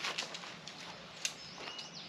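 A few sharp clicks and light knocks, with a short, faint bird whistle near the end.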